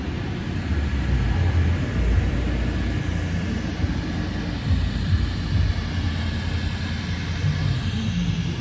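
The supercharged 6.2-litre V8 of a 2012 Cadillac CTS-V running, a steady low engine sound that wavers a little throughout.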